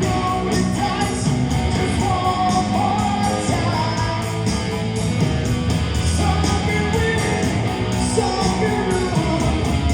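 Buskers playing a rock song, with singing over guitar.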